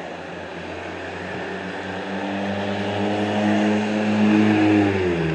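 A vehicle engine droning, growing louder over a few seconds, then dropping in pitch near the end.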